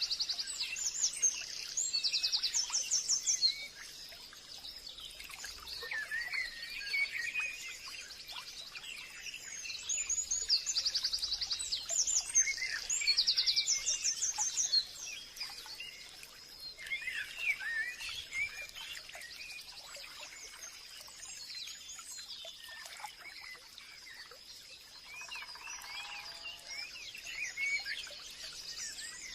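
Forest birds singing, several overlapping songs of chirps and rapid trills, loudest in bursts near the start and again about halfway through, over a faint steady high tone.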